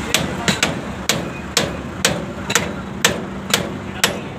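Hammer striking metal in a steady run of blows, about two a second, over a steady low hum.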